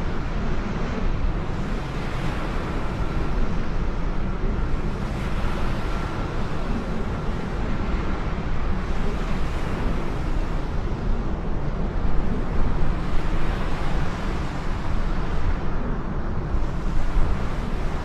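Jet aircraft engines making a steady, continuous rumble with a lot of low-end noise. A faint steady whine sits on top for about the first half.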